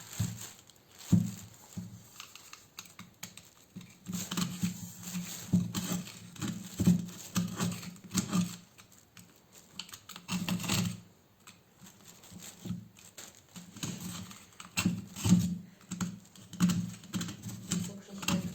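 Irregular clicks and knocks of tools and metal parts being handled during engine work, coming in clusters with short pauses between them.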